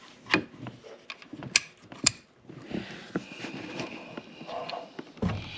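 Hand tools and metal wiper parts being handled on a car's windshield cowl: a few sharp, irregular clicks and knocks over faint rustling.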